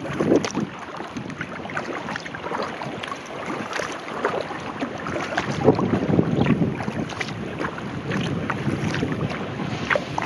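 Kayak paddling: the paddle blades dip and splash through the water, with many small splashes and drips, and wind buffets the microphone.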